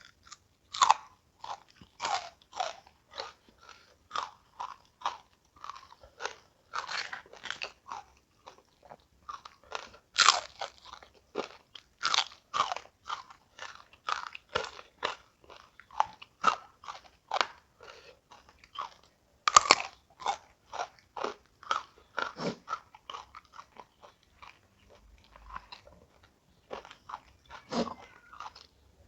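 Close-up crunching and chewing of crisp food, short sharp crunches about twice a second, with a short lull about three-quarters of the way through.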